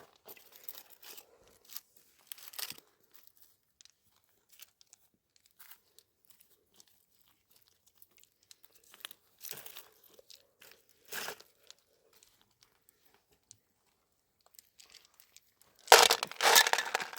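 Short crinkling and tearing rustles, scattered with quiet gaps between them, then a louder burst of crunching and rustling near the end.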